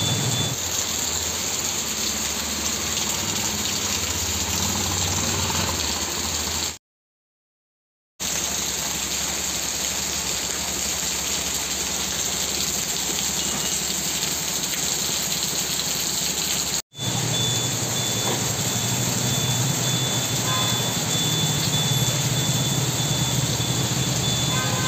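Heavy rain falling steadily, with a low vehicle engine hum underneath. The sound cuts out completely for over a second about seven seconds in, and again for an instant near seventeen seconds.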